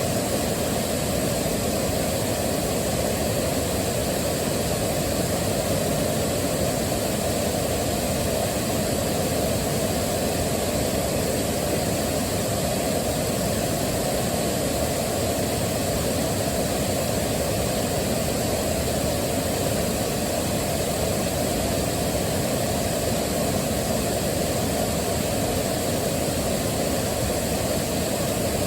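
Waterfall with water rushing in a steady, unbroken noise, deepest and strongest in the low pitches.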